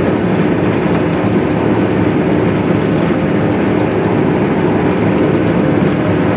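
Case IH swather running steadily while cutting hay: a constant machine drone with a steady hum through it.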